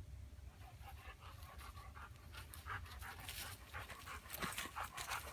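An elderly hunting dog with bad lungs panting hard and fast. The breaths start faint and grow louder and quicker about halfway through.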